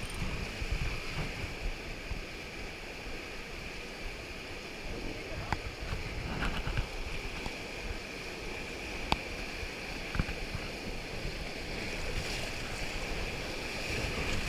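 Steady rushing of river water around a rubber raft, with a few faint knocks.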